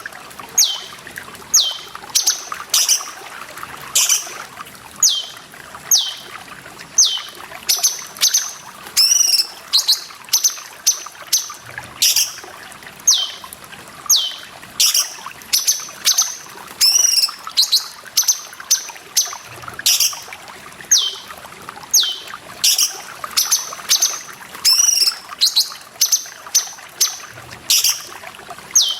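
A cucak cungkok calling over and over, short high notes each falling in pitch, about one a second, with a few fuller notes mixed in, over the steady sound of trickling water.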